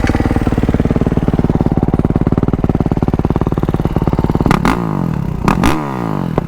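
2022 Kawasaki KX450SR's single-cylinder four-stroke engine putting along at low, steady revs. About four and a half seconds in, the revs start rising and falling with the throttle, and a few sharp knocks come through.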